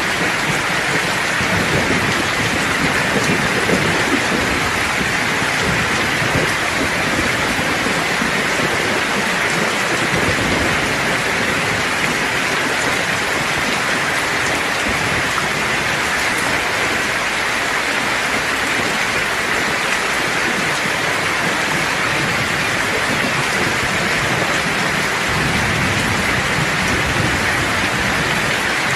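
Steady rain falling, a dense even hiss, with low thunder rumbling in the first third and again near the end.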